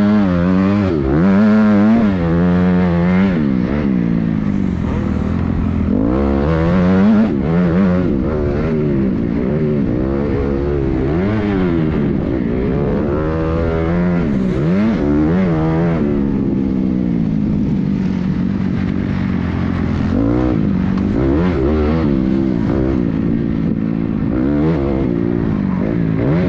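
Several motocross bikes revving hard around the track, their engine pitch climbing and dropping over and over as riders throttle and shift, overlapping one another above a steadier engine drone.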